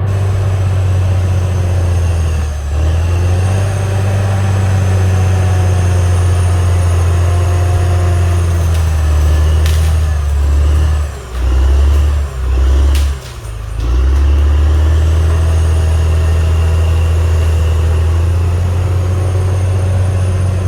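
CAT D6R XL bulldozer's diesel engine running steadily with a deep, loud hum. The level drops briefly a few times around the middle, then steadies again.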